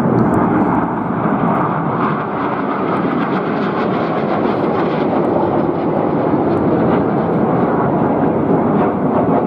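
Display aircraft flying past with steady, loud engine noise.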